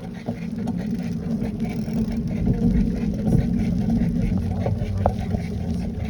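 Low, buffeting rumble of wind and rolling noise on a phone microphone carried while riding a bicycle, with scattered small knocks and rattles.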